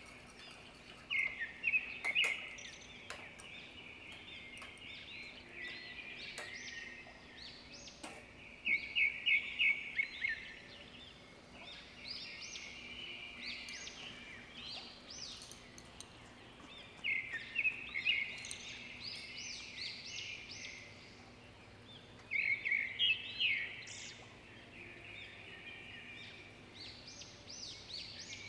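Birds chirping in short bouts of quick, high notes every few seconds, with a few light clicks in the first several seconds and a faint steady hum underneath.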